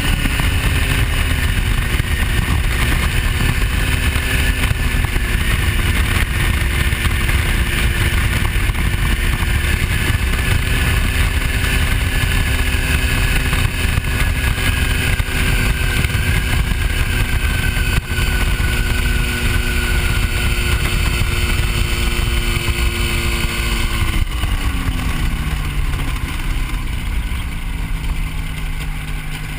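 Hy-Tek Hurricane ultralight's engine running steadily at cruise power, then throttled back about 24 seconds in, its note sliding down over a couple of seconds to a lower steady pitch.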